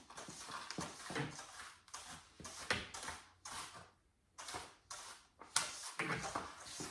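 Cleaning sounds: a run of short swishing or scraping strokes, about one or two a second, irregular, with a brief pause near the middle.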